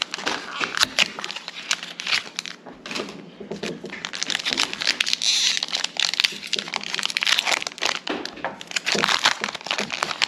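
Crinkly plastic packaging of Pokémon cards being handled and crumpled, a continuous rustling with many quick crackles.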